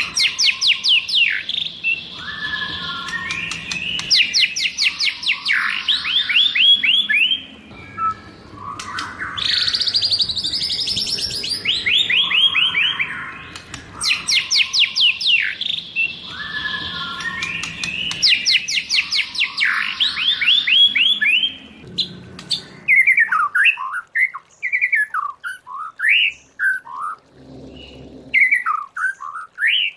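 White-rumped shama singing: long phrases of fast repeated rising notes, each run lasting several seconds with short breaks between. From about two-thirds through, the song changes to slower, separate whistled notes with gaps between them.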